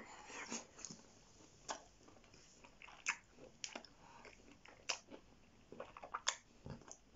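Close-miked chewing of a mouthful of chicken massaman curry, with small mouth clicks at irregular intervals.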